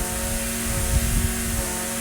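Echo SRM-2620 string trimmer's two-stroke engine running steadily at a constant speed, with some low bumping about a second in.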